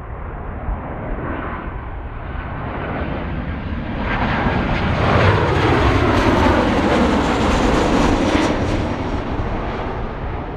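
Jet airliner passing close by, its engine noise building to a loud peak about halfway through, with the whine falling in pitch as it goes past.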